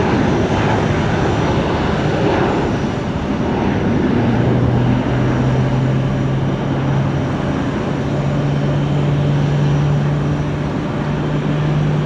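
Aircraft engines running: a steady rushing noise, with a low drone that comes in about four seconds in and slowly rises in pitch.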